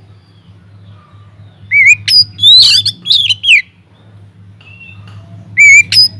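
Oriental magpie-robin singing hard: two loud bursts of rapid, varied whistled phrases mixed with sharp notes, one about two seconds in and another near the end, over a faint steady low hum.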